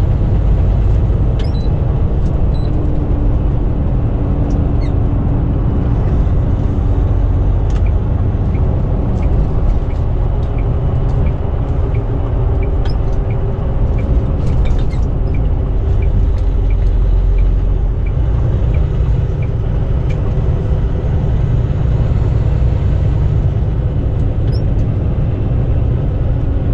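A semi truck's diesel engine and road noise inside the cab while driving, a steady low rumble. A faint regular ticking of about one and a half ticks a second runs through the middle stretch.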